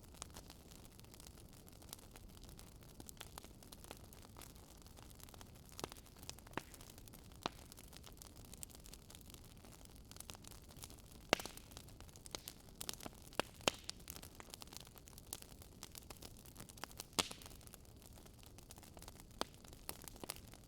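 Wood fire crackling: irregular sharp pops and snaps over a soft steady hiss, with a few louder pops in the second half.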